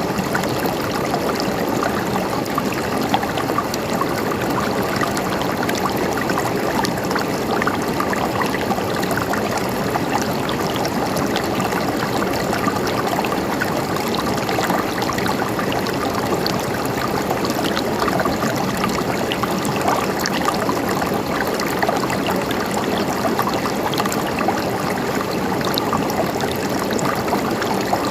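River water flowing over rocks, a steady rushing and gurgling that keeps on without change.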